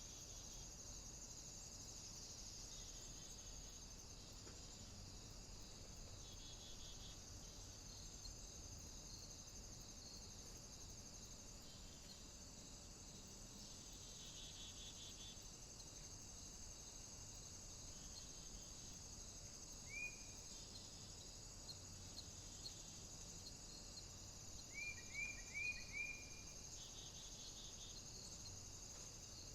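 Faint nature soundscape of crickets chirring steadily. About two-thirds of the way through there is a single short chirp, and near the end a quick run of four or five.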